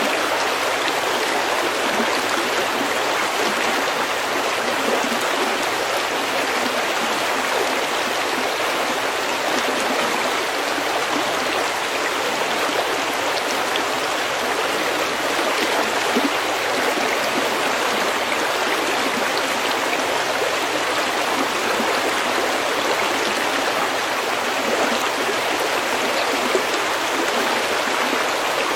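A stream of water flowing over pebbles, a steady, even rush with constant babbling and no breaks.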